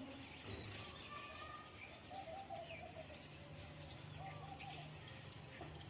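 Faint bird calls: scattered short chirps, and twice a quick run of low repeated notes.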